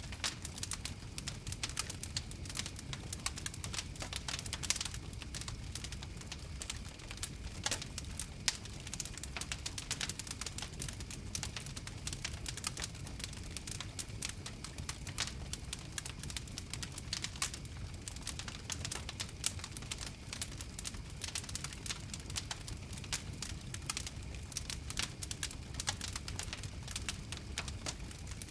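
Campfire crackling: frequent sharp pops and snaps over a low, steady rumble of the flames.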